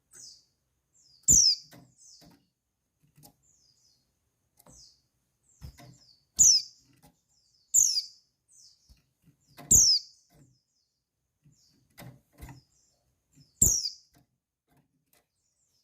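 Female white-eye (pleci) giving short, high chirps that fall in pitch, about five loud ones at irregular intervals with fainter chirps between. It is the female's call that keepers use to stir male white-eyes into song.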